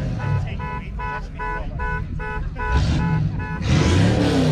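Jaguar car alarm going off: a rapid run of identical electronic beeps, about three a second. Near the end a car engine revs up and rises in pitch, louder than the alarm.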